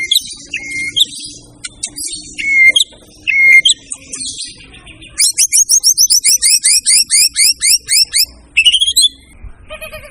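White-rumped shama singing: separate clear whistled notes with quick upward flicks, then a fast run of repeated sweeping notes, about five a second, lasting some three seconds, closed by a short phrase.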